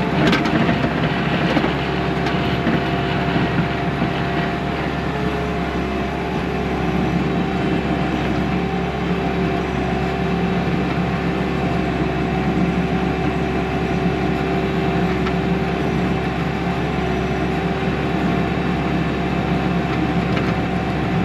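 Bobcat T630 compact track loader's diesel engine running steadily under load, with a steady whine over it, while its bucket strips grass and topsoil.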